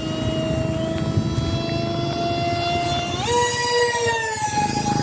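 Propeller aircraft flying past, its motor giving a steady high whine that jumps sharply in pitch about three seconds in, as if throttling up, then eases down slightly, over a low rumble.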